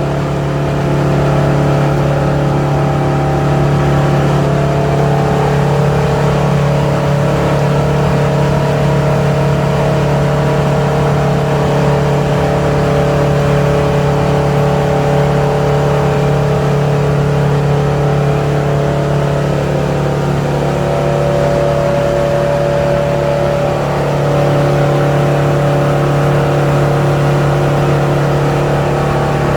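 A 25-foot cabin cruiser's engine running steadily under way: a loud, even, low drone with a small rise in level about a second in.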